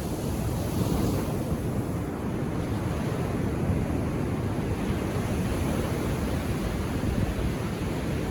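Ocean waves washing onto a beach, a steady low rush of surf with a little wind on the microphone.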